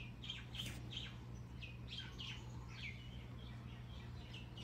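Small birds chirping repeatedly: quick, high, downward-sliding chirps several times a second, over a steady low hum.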